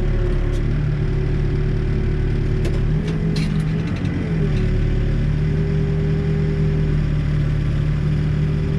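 Backhoe loader's diesel engine running steadily at working speed; about three seconds in its pitch sags under load and recovers, with a few sharp clanks at the same time.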